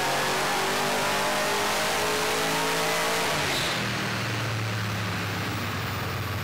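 Holden VE Commodore SS V8 on a chassis dyno, pulling up through the revs under full throttle with a steadily rising pitch. About three and a half seconds in it backs off and runs on at a lower, steadier note.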